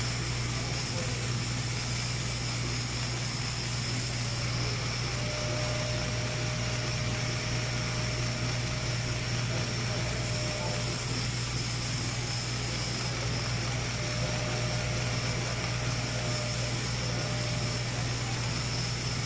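Steady machine hum with a thin high whine, and a faint fizzing that comes and goes twice.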